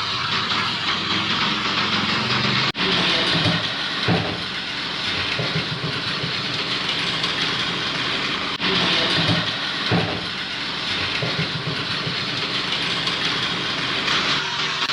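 Battery-powered Plarail toy trains running on plastic track: a steady whirring of small motors and gears with the wheels rattling along the rails. The sound cuts out very briefly twice.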